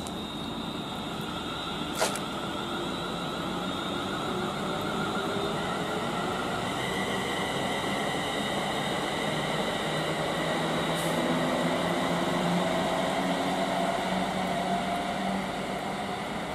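A train running at the station: a steady hiss with several held, slowly drifting tones that grow louder up to about two thirds of the way through and then ease off a little. A single sharp click about two seconds in.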